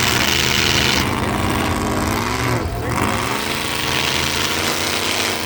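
Demolition derby pickup truck engines running and revving; about two and a half seconds in, one engine's pitch drops and then climbs again as it is throttled back up.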